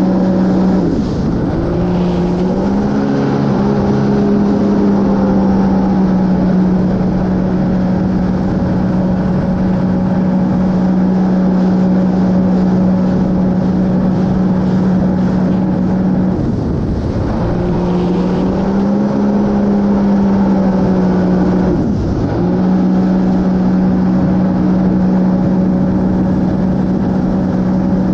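Sea-Doo GTR230 jet ski's supercharged three-cylinder engine running at steady high revs under way, with a rush of water and wind. The revs drop briefly and climb back three times: about a second in, and twice in the second half.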